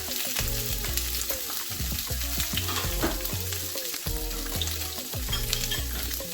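Chopped red and green bell peppers and sweet onion sautéing in a hot skillet: a steady sizzle of vegetables frying in oil.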